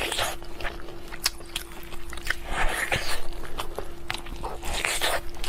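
Close-up mouth sounds of someone eating pork: wet chewing, smacking and biting clicks at an irregular pace. A faint steady hum runs underneath.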